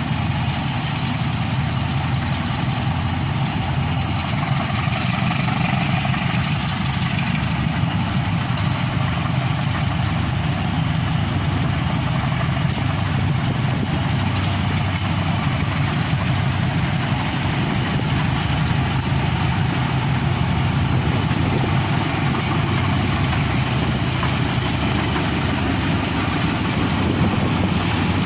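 Diesel engines of a pair of GE U13B diesel-electric locomotives running steadily, an even low drone with a hiss above it.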